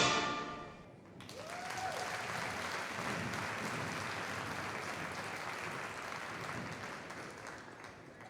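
The last chord of the routine music dies away, then an audience breaks into applause about a second in, holding steady and fading near the end.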